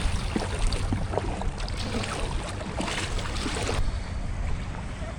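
Heavy rain falling on the sea around a kayak: a steady hiss of rain on water with many small splashes, and wind on the microphone. The hiss thins a little about four seconds in.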